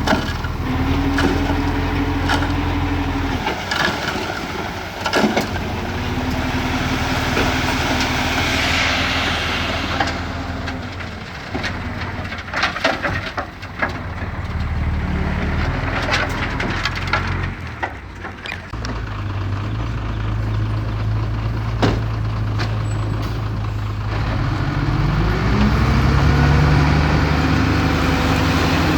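Heavy diesel machinery, a dump truck and a bulldozer, with engines running and changing pitch as they take load, rising in steps near the end. Sharp knocks and clanks come and go throughout.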